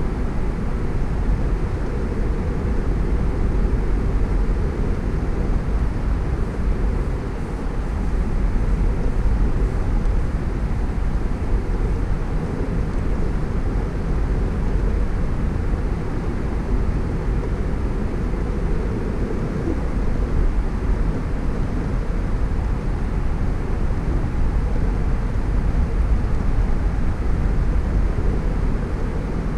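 Car driving at a steady speed: continuous low road and tyre noise mixed with engine sound and wind.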